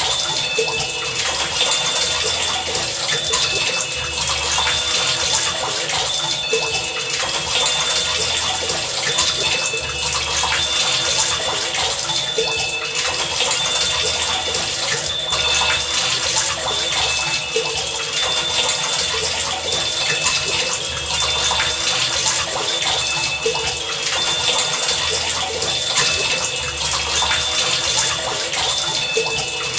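Steady heavy rain, with short high pitched pings and soft low thumps that recur every few seconds in a loose rhythm, like rain drumming on objects.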